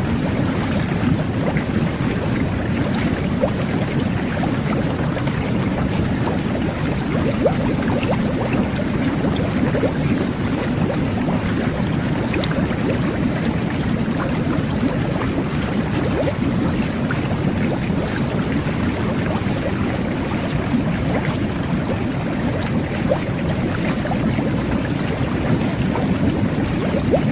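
Jet bath (whirlpool bubble bath) running: its water jets churning the tub water in a steady, low rush, flecked with small bubbling pops.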